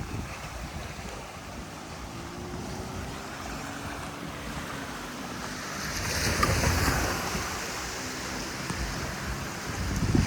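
Sea surf washing onto the beach, with wind buffeting the microphone; a wave breaks louder about six seconds in and another near the end.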